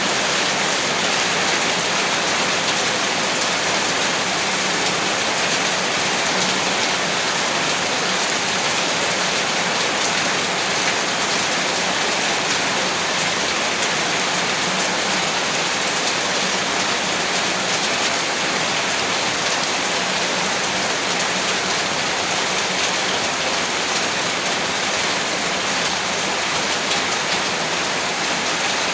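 Heavy rain falling steadily, a dense, even hiss of drops on a surface with no let-up.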